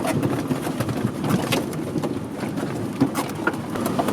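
Truck running at low speed over a snowy track, a steady low rumble with many sharp irregular clicks and knocks.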